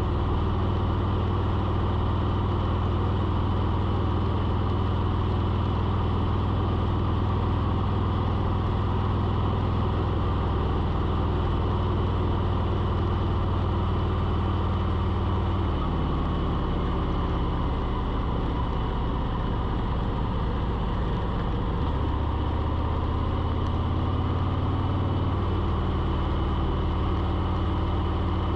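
A steady, low mechanical hum like a running engine, stepping in pitch a couple of times midway, with a faint steady high tone over it.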